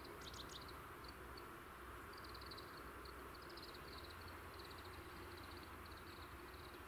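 Faint outdoor ambience: a small bird's quick high trills, repeating every half-second or so, over a low steady hum.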